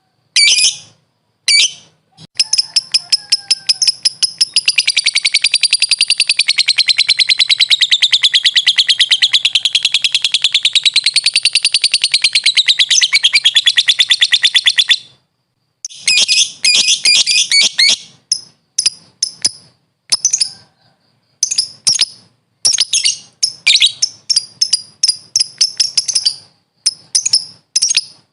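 Lovebird (Agapornis) calling. After a few short shrill calls comes one long, very rapid chattering trill of about twelve seconds, wavering in pitch: the 'ngekek' song that keepers train for. It stops suddenly and gives way to bursts of short, choppy high chirps.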